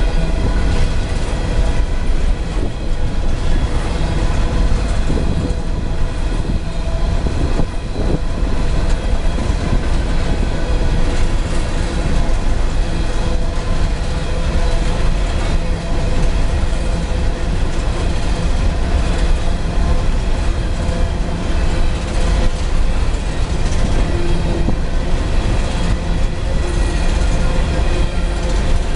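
Long loaded coal train's freight cars rolling steadily past at close range: continuous wheel-on-rail noise with rhythmic clacking over the rail joints and faint steady squealing.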